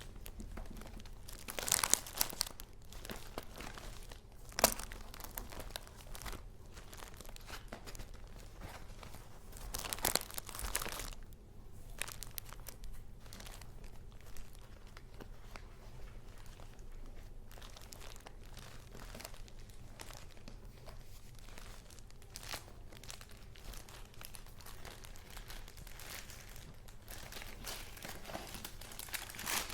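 Paper being handled: sheets and journal pages crinkling and rustling as they are turned and moved. There are louder bursts about two seconds in, around ten seconds in and near the end, and a sharp tap about four and a half seconds in.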